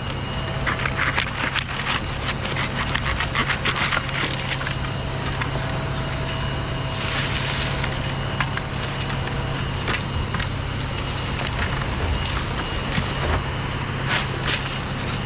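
Dry Canary Island date palm fronds cracking and splintering as they are cut, with dense crackling in the first few seconds and a rush of rustling about seven seconds in. A steady low motor hum runs underneath.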